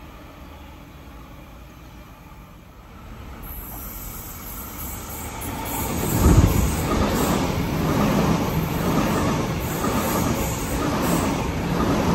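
Sydney Trains Waratah double-deck electric train approaching, growing louder from about four seconds in, then passing close by with its wheels running over the track in a repeating rhythm.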